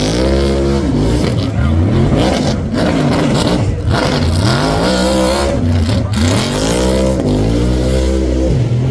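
Car engine revving hard, its pitch climbing and dropping back four or five times as the throttle is worked, with a deep steady rumble underneath.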